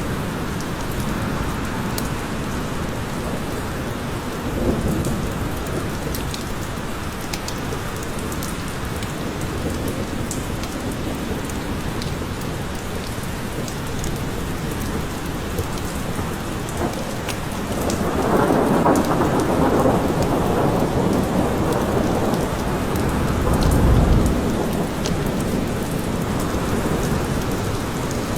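Steady rain falling in a forest, with scattered close drops ticking. About two-thirds of the way through, thunder rolls in, swelling and ending in a deep rumble.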